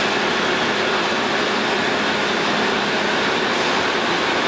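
Steady machine-shop background noise: an even, unbroken rushing hum with no distinct events.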